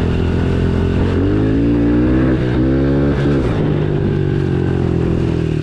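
Honda CRF110F dirt bike's small single-cylinder four-stroke engine under way, revving up about a second in, rising and falling twice, then easing back to a steady run.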